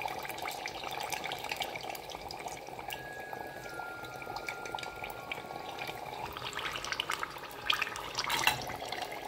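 Battered bananas frying in hot canola oil in a covered stainless-steel pot: a steady sizzle with fine crackling. Near the end the lid is lifted off, with a couple of sharp knocks.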